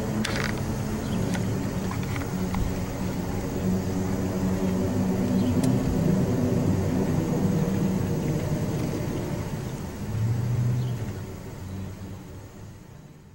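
Low droning rumble made of several held low tones that waver and shift slightly, the kind of 'groaning' hum heard in recordings of the unexplained 2011 sound phenomenon; it fades out over the last couple of seconds.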